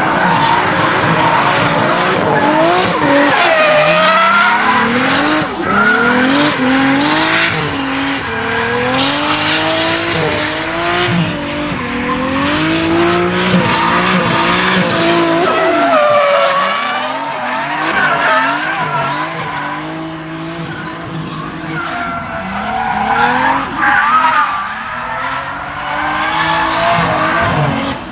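Modified Nissan Silvia drifting: the engine revs up and down again and again as the throttle is worked, over tyre squeal.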